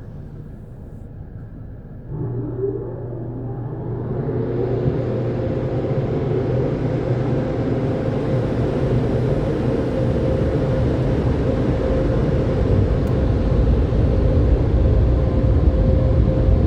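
Automatic car wash dryer blowers starting about two seconds in. The motors spin up with a rising whine, then settle into a steady hum under a rush of air that slowly grows louder, the drying stage after the spot-free rinse.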